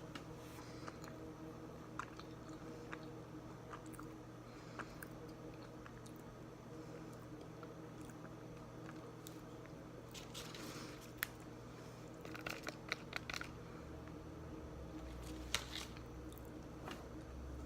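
Close-up chewing and biting of a salted caramel protein bar: scattered soft crunches and small mouth clicks, with denser crunching in the second half.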